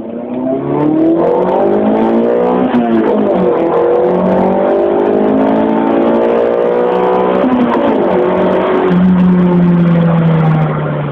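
Honda Prelude's four-cylinder VTEC engine accelerating hard at full throttle: the revs climb, drop sharply at two upshifts about 3 and 8 seconds in, and level off near the end.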